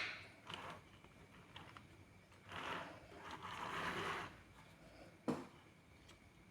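Plastic building-block pieces being handled and snapped together: small clicks, a soft rustling of pieces for a second or two in the middle, and one sharp click a little after five seconds in.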